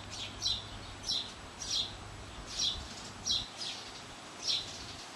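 A bird chirping over and over, a short high chirp that drops in pitch, about nine times, somewhat unevenly spaced. A faint low hum lies beneath and fades out a little past halfway.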